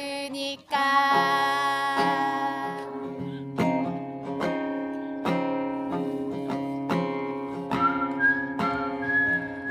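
A male singer holds out the end of a sung line over an acoustic guitar, then the guitar carries on alone with steady strumming about twice a second. Near the end a thin, high whistled melody comes in over the strumming.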